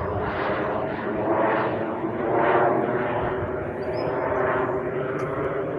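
Pilatus PC-21 turboprop trainer's engine and propeller in flight: a continuous drone that swells and fades about once a second.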